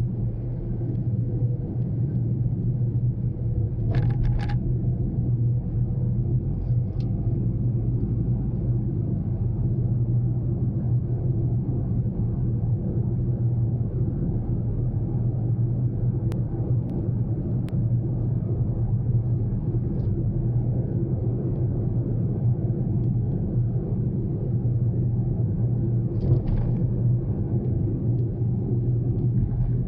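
Steady low rumble of road and engine noise inside a Daihatsu Mira Cocoa's cabin while driving, with a couple of faint clicks.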